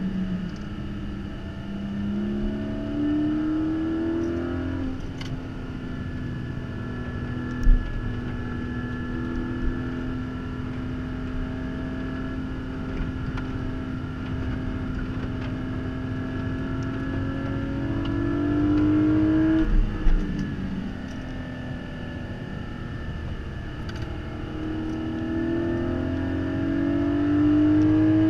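Porsche Cayman GT4's naturally aspirated flat-six heard from inside the cabin on track, climbing in pitch under acceleration and dropping sharply at gear changes about five and twenty seconds in. It holds a nearly steady pitch through a long stretch in the middle. A couple of sharp thumps stand out, the loudest one just before the second drop.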